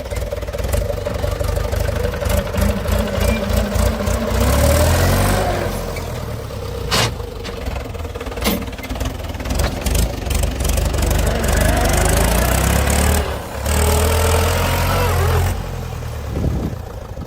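Diesel engine of heavy machinery running and revving, swelling louder twice, with a couple of sharp knocks partway through.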